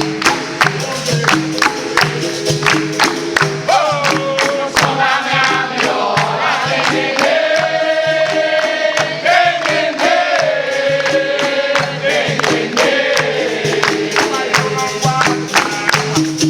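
Capoeira music: a song sung to a steady beat of quick hand-percussion strikes over repeated low instrument notes, typical of a roda played on berimbau and pandeiro.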